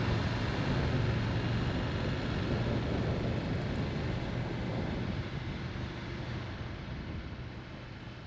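Motorcycle running on the road with wind noise, a steady low engine hum under a rushing hiss, fading out gradually.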